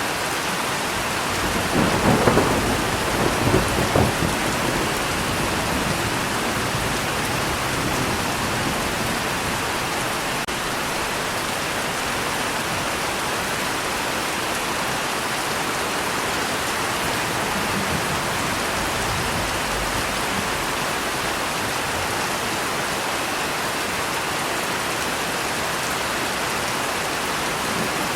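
Steady heavy rain falling, with a crackling peal of thunder about two seconds in that lasts a few seconds before the rain carries on alone.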